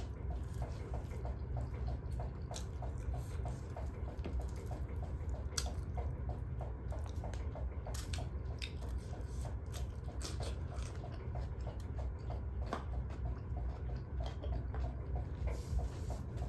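Close-up eating sounds: chewing and wet mouth noises from a mouthful of duck curry, with many short sharp clicks over a steady low hum.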